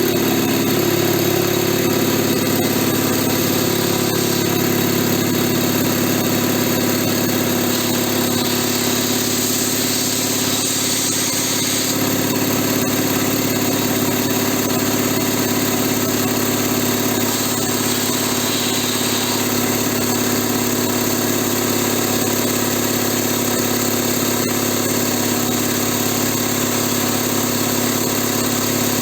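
SO-7B piston air compressor running steadily under load, pumping with one outlet fully open so air blows straight out; on an open outlet it holds about 4.5–5 atmospheres.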